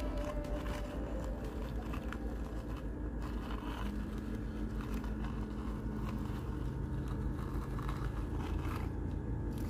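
Heavy construction machine's engine running with a steady low rumble; a steady hum joins it about four seconds in.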